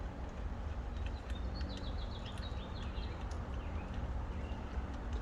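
A bird chirping a quick run of wavering notes about a second and a half in, over a steady low background hum, with a few faint clicks.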